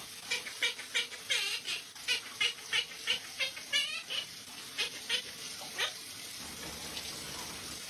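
Pet parrot making a quick run of short, high squeaky chirps, about three a second, which stop about six seconds in.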